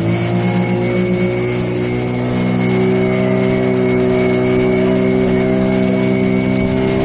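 Glass-bottom tour boat's engine running steadily under way, a loud, even hum that shifts slightly in pitch about two seconds in.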